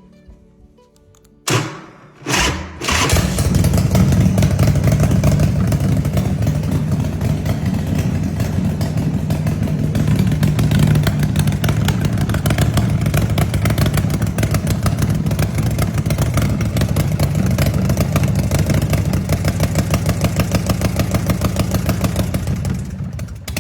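Custom chopper's 114 ci Ultima V-twin engine started: two short bursts as it turns over, then it catches and runs steadily and loudly for about twenty seconds before fading out near the end.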